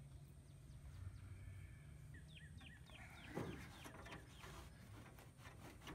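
Quiet outdoor background with a bird calling a quick run of short, falling chirps about two seconds in. A soft knock comes a little after.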